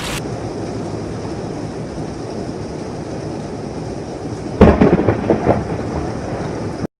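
Steady rain, then a sudden, loud, close thunderclap from a nearby lightning strike about four and a half seconds in, with a second of crackling rumble after it. The sound cuts off abruptly near the end.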